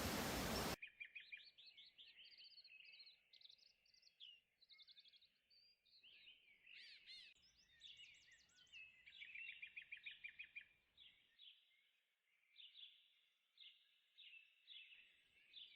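Several songbirds singing quietly over one another, with rapid trills and repeated chirps, busiest in the middle and thinning to spaced chirps near the end. It opens with a loud hiss that cuts off abruptly just under a second in.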